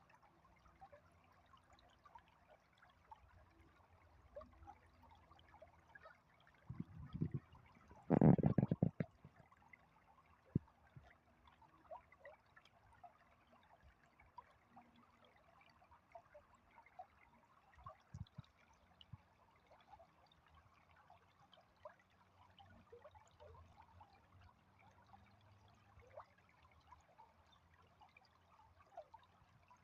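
Faint trickling, running water, dotted with small clicks. About seven to nine seconds in there is a louder cluster of low knocks and rumbles.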